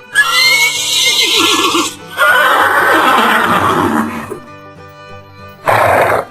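Horse whinnying: a loud call with a high rising squeal, then a second call that falls in pitch. A short breathy burst about a second and a half later sounds like a snort. Background music plays under it.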